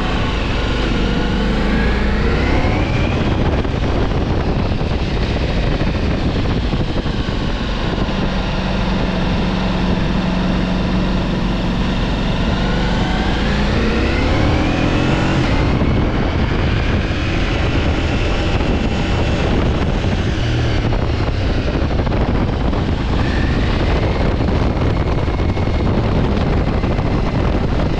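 Ducati Multistrada V4 S motorcycle's V4 engine under way, its pitch rising and falling several times as the bike accelerates and slows through the gears, over a steady rush of wind.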